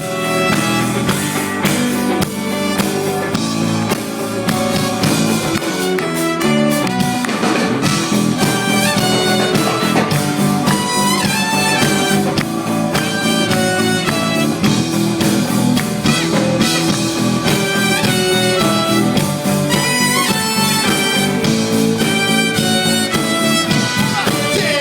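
Live band playing an upbeat instrumental intro led by a brass horn section, with a steady beat.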